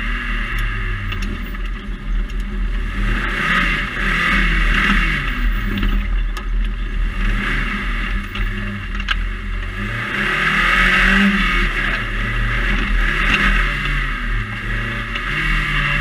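Ariel Nomad off-road buggy's engine heard from its open cockpit, the revs climbing and dropping again and again as it is driven, under a steady higher hiss.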